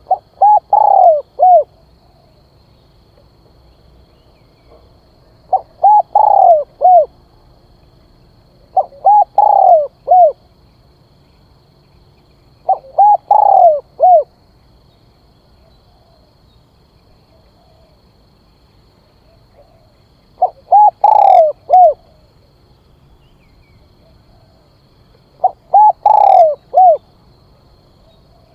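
Spotted dove cooing: six phrases of a few short, falling coo notes each, repeated every few seconds. It is the male's advertising call, used as a lure to draw wild doves.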